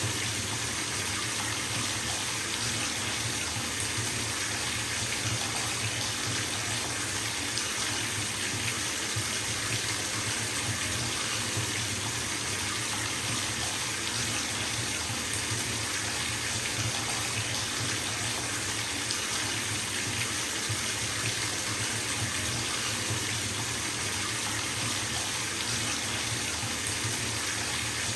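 Water running from a bathtub tap into a filling tub: a steady rushing splash that holds at one level.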